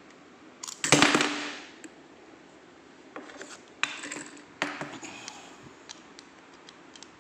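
Metal lock-picking tools being handled: a loud clatter about a second in, then a few lighter clicks and knocks.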